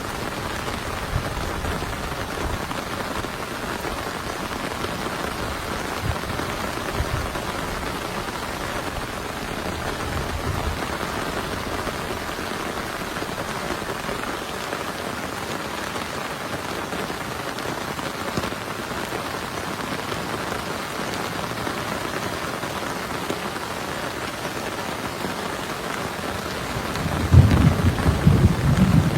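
Heavy rain falling steadily, with a few faint low rumbles of thunder and a loud rumble of thunder building near the end.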